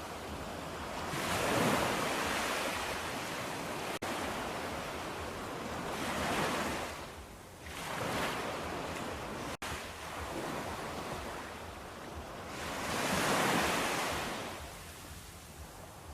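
Ocean surf: waves washing in, each one a rising and falling rush of noise, swelling about every five seconds. The sound cuts out for an instant twice.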